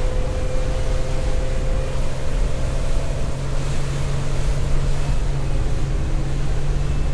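Boat engine running steadily under way, with wind on the microphone and water rushing along the hull.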